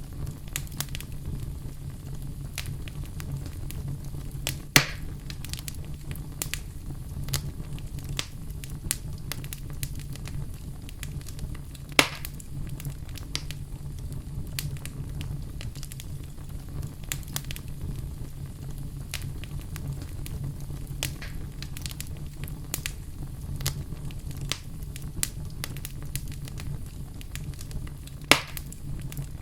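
Fire burning in a fireplace: a steady low rumble of flames with frequent small crackles, and three loud sharp pops, about five seconds in, about twelve seconds in, and near the end.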